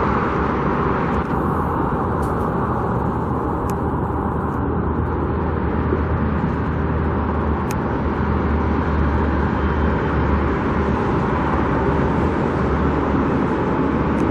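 Steady road traffic noise: a continuous rush of passing vehicles with a low rumble underneath.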